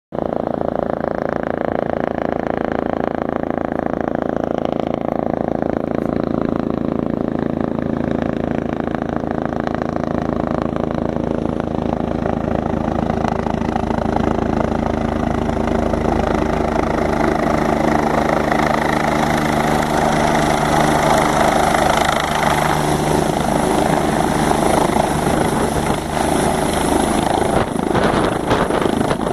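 Helicopter rotor and engine running, a steady low throb with evenly spaced tones, building into a louder rushing noise over the second half.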